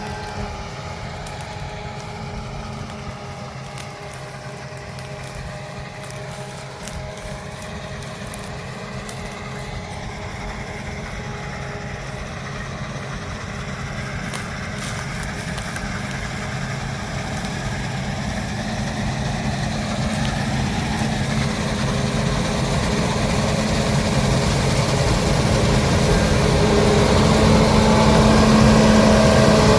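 Heavy diesel farm machinery running with a steady drone that grows gradually louder as it comes closer.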